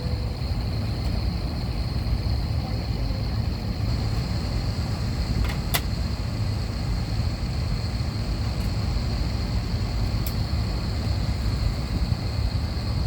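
Steady low rumble and hum of an Airbus A321 cabin, with a faint steady high whine over it. Two short sharp clicks come about six seconds and ten seconds in.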